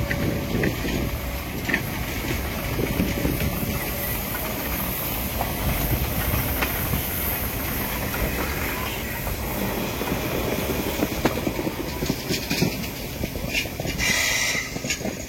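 Train running on rails: a steady low rumble with hiss and scattered light clicks from the wheels, and a brief louder hiss near the end.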